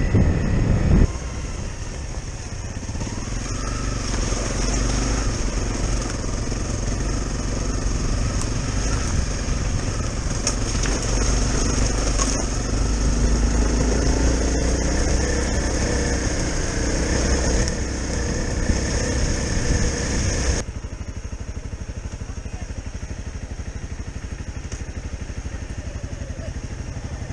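Single-cylinder four-stroke engine of a Honda CRF250L trail bike running under way on a dirt lane, its note rising and falling with the throttle. About twenty seconds in, the sound drops suddenly to a quieter, steadier note.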